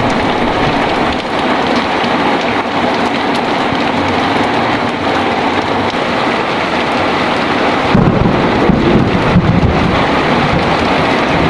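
Heavy rain pouring steadily, with a low roll of thunder starting about eight seconds in.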